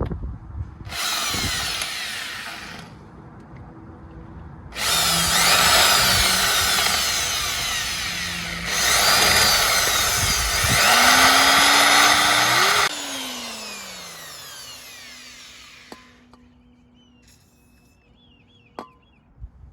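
Power drill drilling into metal, enlarging a pilot hole with progressively larger bits. A short burst about a second in, then a long run with a surge partway through, winding down after it is released.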